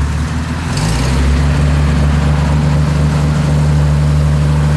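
Car engine running, picking up speed about a second in with a brief hiss, then holding a steady pitch.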